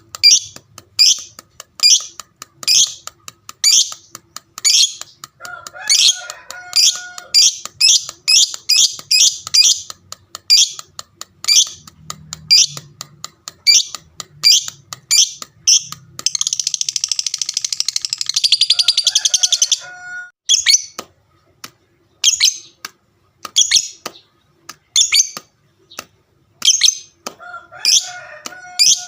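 A lovebird calling with a string of sharp, high chirps, one or two a second. About two-thirds of the way through it breaks into a fast continuous chatter lasting about three seconds, the 'ngekek' song, then goes back to single chirps.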